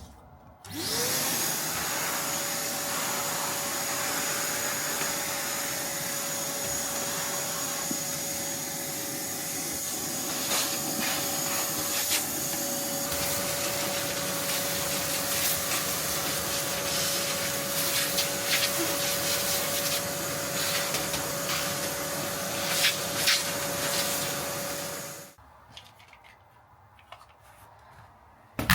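An electric motor switches on and spins up to a steady, even running pitch, runs for about 24 seconds with some rubbing and a few clicks over it, then switches off.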